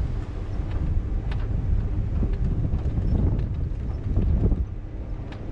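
Wind buffeting the microphone, a rough low rumble, with a few scattered light clicks.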